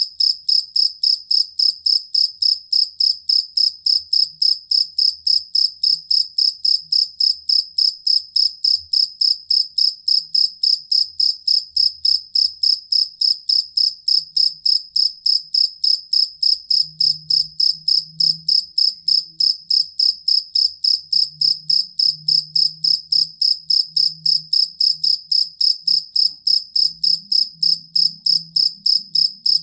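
Field cricket chirping: an even, unbroken run of short, high-pitched chirps, about three a second.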